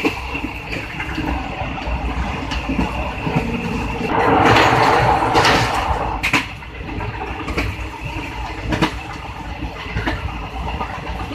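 Train wheels rolling on the rails, heard at the open rear end of a moving train, with a steady rumble and sharp clicks every second or two from wheels passing over rail joints. The rumble grows louder for about two seconds midway, while the train is on a steel truss railway bridge.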